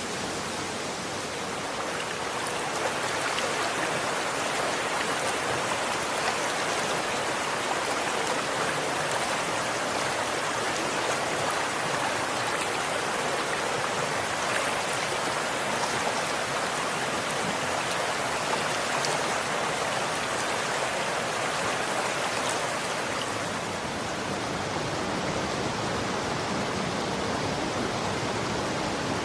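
Running water: a steady, dense rush of flowing water, filling out a little about two seconds in.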